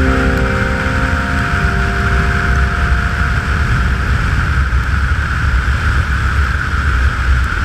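Motorcycle riding at speed, heard from an onboard microphone: a steady, loud rumble of engine and road mixed with heavy wind noise. The last notes of background music fade out within the first second or two.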